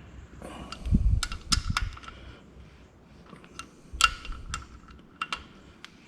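Hand tools clinking against metal engine parts: a dozen or so irregular sharp metallic taps and clinks, some with a short ring, and a dull thump about a second in.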